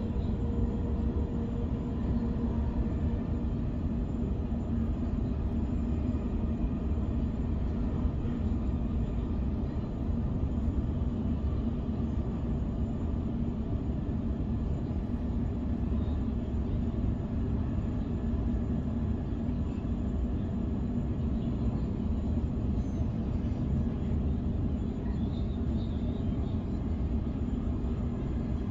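Electric suburban passenger train running steadily along the line, heard from inside the carriage: a constant low rumble with a steady hum.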